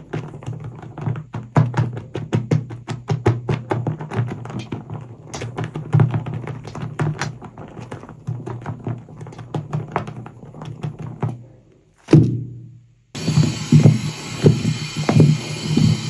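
Soapy sponge squeezed and rubbed in thick foam, with rapid irregular squelching and crackling of bubbles. It breaks off briefly about twelve seconds in, then resumes with a wetter hiss underneath.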